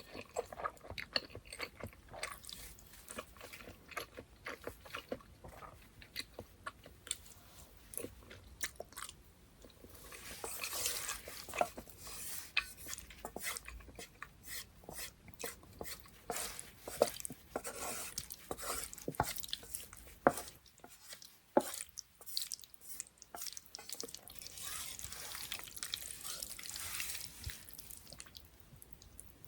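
Close-miked chewing of chewy kalguksu noodles in thick black-bean sauce, with many wet mouth clicks and smacks and a few longer hissing stretches.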